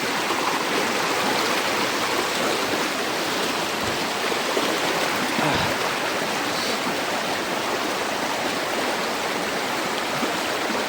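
Fast jungle river rushing steadily over rocks and boulders.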